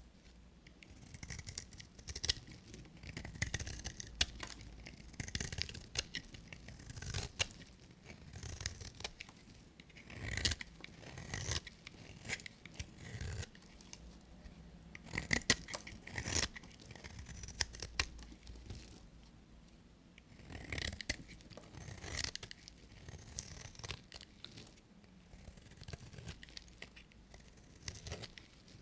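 A knife cutting through bars of dry soap: a series of short scraping, crackling cuts, one every second or two, with brief pauses between.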